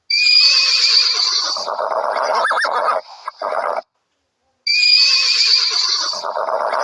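An animal call sound effect played twice in identical form, each about four seconds long: it opens with a high wavering squeal and drops into a lower, rougher call, with a short break of silence between the two.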